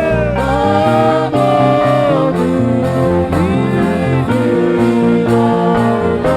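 Gospel music: a solo voice holding and bending long sung notes over a bass line and a steady beat.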